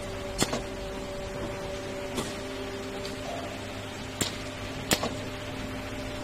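A high-frequency welding machine for USB connectors running with a steady electrical hum of several held tones, and a few sharp mechanical clicks, about four in all, spread through it.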